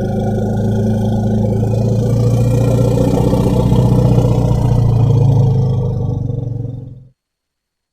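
Elephant rumbling: one long, low, steady rumble that fades out about seven seconds in, followed by silence.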